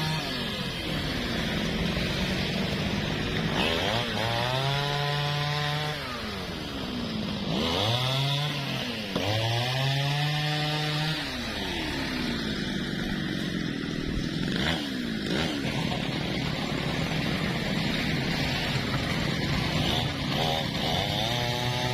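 Newwest 628 two-stroke chainsaw revved up and let down several times, settling to a lower running speed for a while, then revved again near the end.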